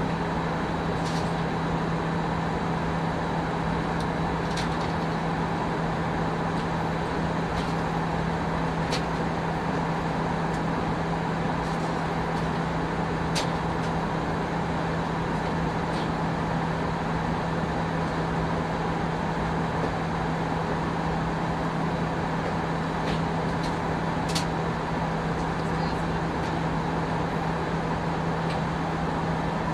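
Steady cabin noise inside an Airbus A319 in flight: an even rush of air with a constant low hum underneath. A few faint, sharp ticks are scattered through it.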